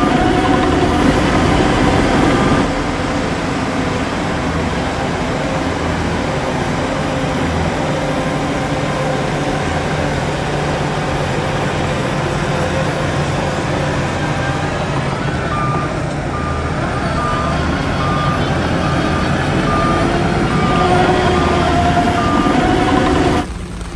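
Heavy diesel earthmoving machinery (bulldozer and dump truck) running steadily. A reversing alarm beeps about twice a second for several seconds past the middle, the sign of a truck backing up. The sound drops abruptly just before the end.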